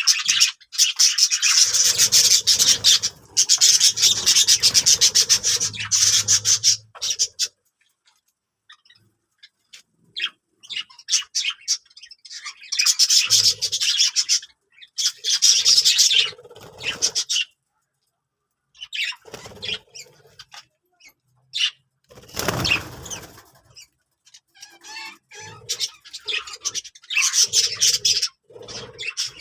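Budgerigars chattering and warbling in long, rapid, high-pitched bursts separated by quieter stretches of scattered chirps. A short rush of noise comes a little past the middle.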